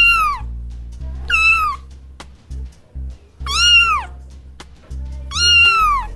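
Domestic cat meowing four times, each call arching up then down in pitch, over a children's song with a steady low bass line.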